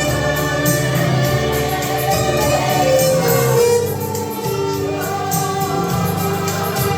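Violin melody of long held notes over a backing track with a bass line and a steady percussion beat.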